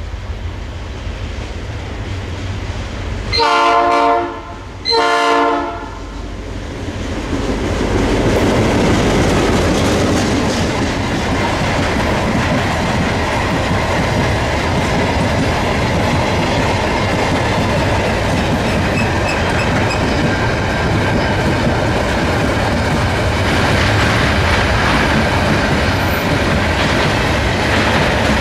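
Diesel freight locomotive's horn sounding two blasts of about a second each. Then the locomotive and a long train of empty flatcars roll past, a steady clatter of wheels on rails.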